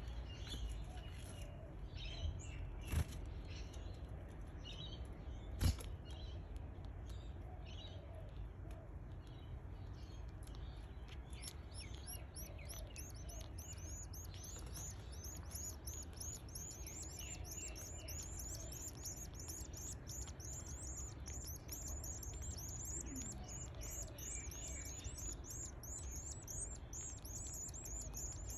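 Canary chicks about eleven days old begging for food: high-pitched cheeping that is scattered at first, then from about twelve seconds in becomes a fast, continuous run of short chirps. Two sharp knocks come early on.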